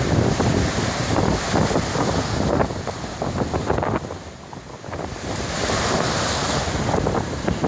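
Ocean surf breaking on the shore, a continuous rumbling wash that eases briefly about halfway through, then swells again as the next wave hisses in. Wind buffets the microphone throughout.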